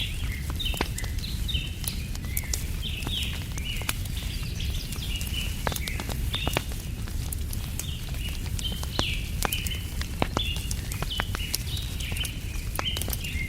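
Wood fire crackling with scattered sharp pops over a steady low rumble, while small birds give short chirps a few times a second.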